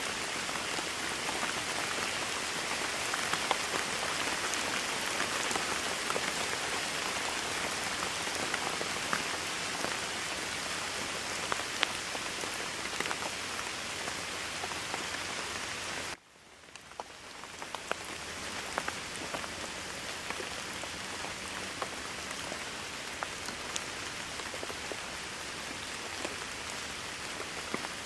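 Steady heavy rain falling on surfaces, a dense hiss dotted with the ticks of individual drops. About sixteen seconds in it cuts out abruptly and swells back over a couple of seconds, a little quieter than before.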